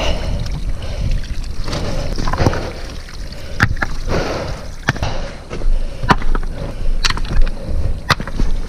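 Rocks knocking against each other as they are dropped and packed into a hole in a creek bed, a sharp knock about once a second, with water sloshing.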